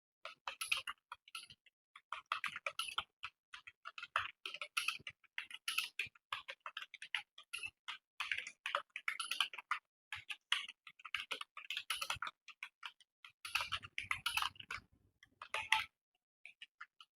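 Fast typing on a computer keyboard: a quick, irregular stream of key clicks with a few short pauses, the longest near the end.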